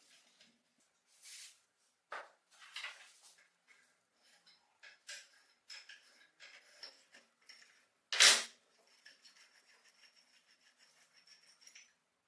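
Hand work on rusty cast-iron parts: scattered scrapes, clicks and clinks of metal on metal, with one sharp, loud knock about eight seconds in, followed by light rapid ticking.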